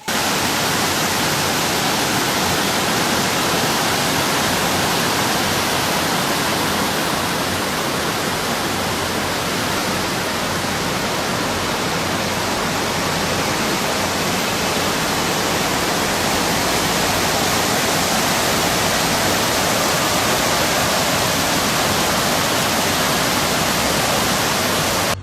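Steady loud rushing noise that cuts in and cuts out abruptly, with no distinct events.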